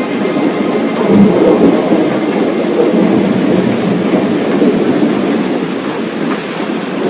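Heavy thunderstorm downpour: a loud, steady rush of rain.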